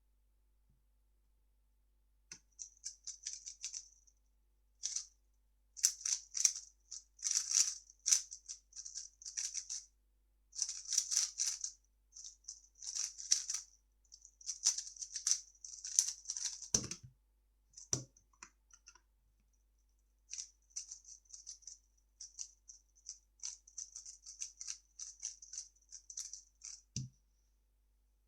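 3x3 speedcube being turned fast: rapid runs of crisp plastic clicks from the layers turning, with short pauses between runs. Three dull thumps land among them, the loudest about two-thirds of the way through.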